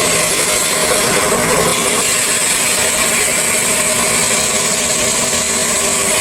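Stone-processing machinery running steadily: a continuous mechanical rattle with a constant high whine over it.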